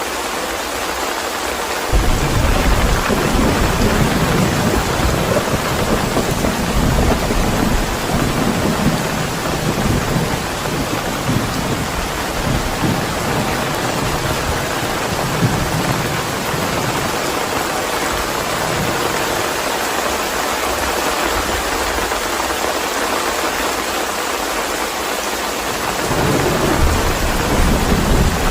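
Steady rain with thunder. A low rumble breaks in about two seconds in and rolls on, slowly fading, for more than ten seconds, and another rumble starts near the end.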